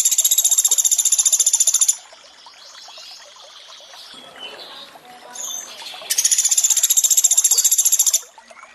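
Sogon bird giving a loud, very high, rapid trill twice, each burst about two seconds long: the 'tembakan' shot phrase that copies the call of the pelatuk beras (Sunda pygmy woodpecker). Trickling water runs beneath it.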